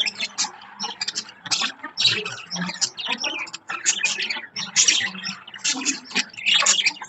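Several budgerigars chirping and chattering without pause, a dense run of quick, high chirps.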